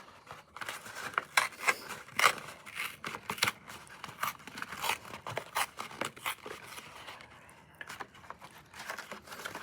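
MRE packaging being handled: plastic and paper crinkling and tearing, with irregular sharp crackles and snips as a postcard is cut off.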